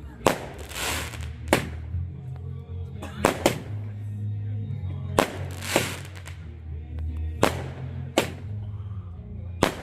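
Fireworks exploding: a series of sharp bangs, about nine in ten seconds, some trailed by a crackling hiss. Music with a heavy bass line plays underneath.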